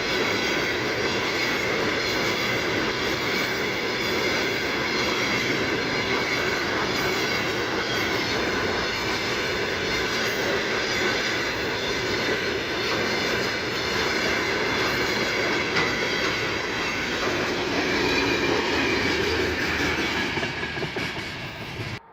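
Freight train wagons rolling past on the rails close by: a steady, loud running noise with ringing wheel-on-rail tones and some clickety-clack. It cuts off suddenly near the end.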